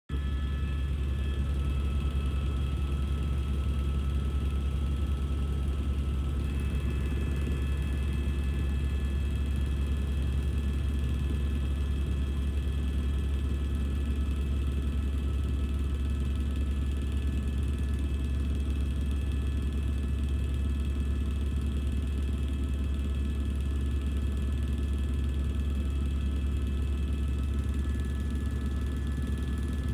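Helicopter in flight: a steady low drone from the rotor and engine, with a thin steady turbine whine above it. Some of the whine's tones shift slightly about six seconds in.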